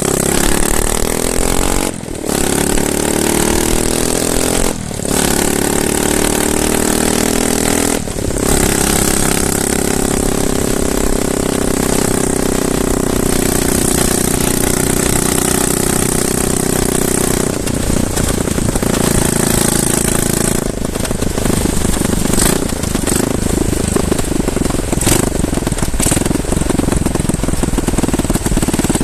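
A home-built wooden motorcycle's engine running under way, cold and sounding angry. Its note rises at the start and dips briefly three times in the first eight seconds, then holds steady and turns rougher and more uneven in the last third.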